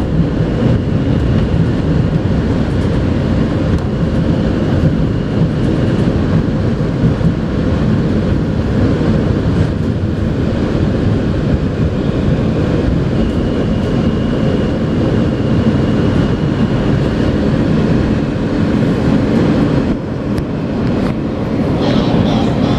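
R160A New York City subway train running on the rails, heard from inside the car: a steady rumble with a faint high whine that comes and goes.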